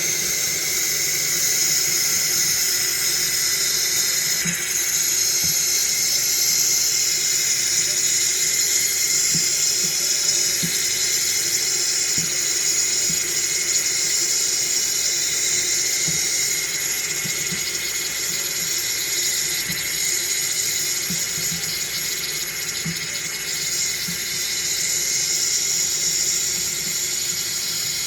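Coffee machine's steam wand hissing steadily while frothing milk, with faint irregular low pops.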